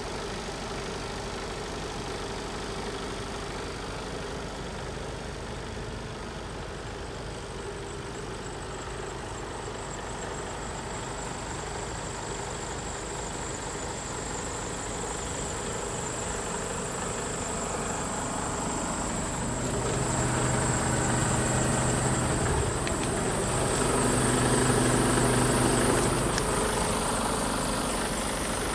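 Mercedes Actros 2545's diesel engine idling steadily, with a thin high whine over it. Over the second half it grows louder, with a steadier, fuller hum for several seconds.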